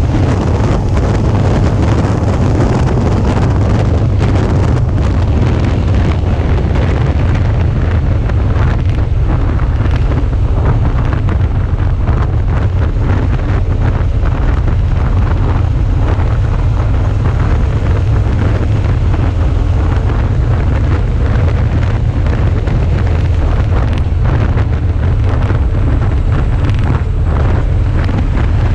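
Steady, loud wind buffeting on a motorcycle-mounted action camera's microphone while riding, with the Suzuki V-Strom 650's engine and road noise under it.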